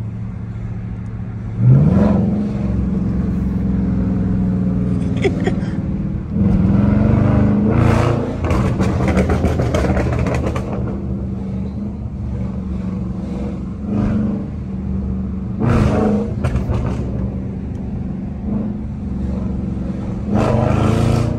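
Burble-tuned Dodge Charger V8 heard from inside the cabin while driving: it revs up sharply about two seconds in, then pulls in several short bursts of throttle between stretches of steady cruising.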